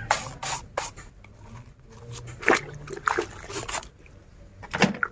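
A brush scrubbing a soapy plastic toy, with irregular rubbing strokes that come thick in the first second and more sparsely after.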